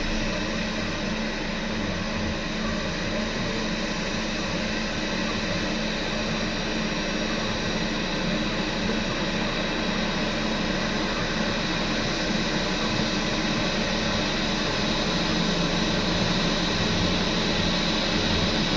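Steady rushing hum of a Boeing 737-800 airliner cabin, with engine and air-conditioning noise and a few steady tones, growing a little louder near the end.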